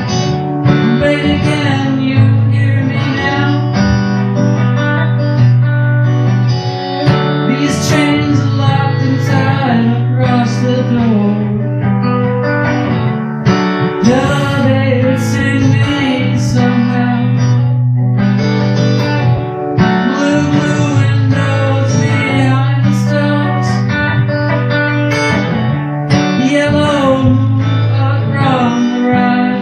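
Guitar-driven rock song: strummed acoustic guitar with electric guitar over sustained low notes.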